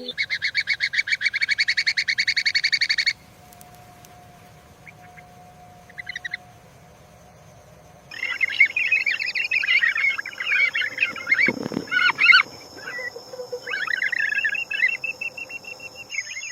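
Birds calling: a fast, evenly pulsed trill for about three seconds, then after a quiet stretch a busy chatter of many overlapping calls from about eight seconds in, with a short low thump in the middle of it.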